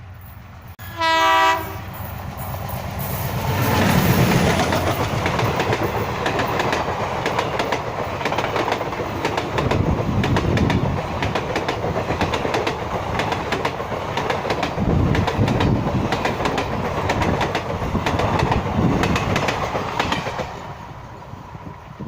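A WDM3A diesel locomotive sounds one short horn blast, then the passenger train rumbles past, its wheels clattering steadily over the rail joints. The sound swells within the first few seconds and fades near the end.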